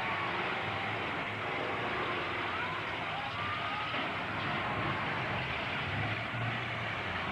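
Derby truck engines running in a steady, noisy din, with faint wavering rises and falls in pitch over it.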